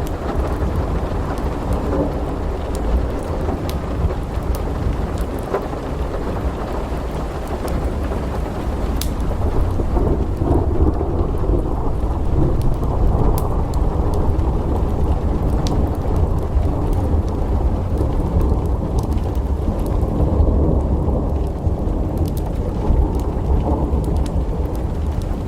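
Thunderstorm ambience: a continuous low rumble of thunder under steady rain, with scattered sharp crackles from a wood fire in a fireplace.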